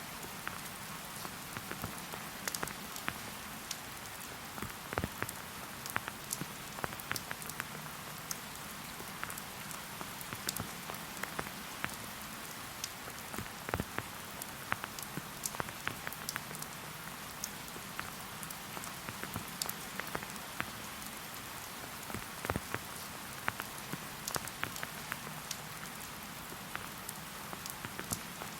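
Steady rain falling in a forest: a continuous soft hiss with many separate drops ticking irregularly nearby.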